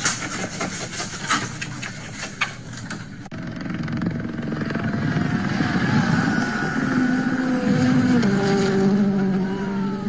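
Rally car engine coming on hard and getting louder, its pitch climbing and then stepping down about eight seconds in as it shifts up. It is preceded by about three seconds of scattered sharp clicks and clatter.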